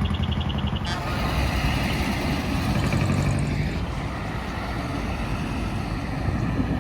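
Heavy diesel truck engine running as the truck drives past, with a sudden sharp sound about a second in followed by a broad hiss.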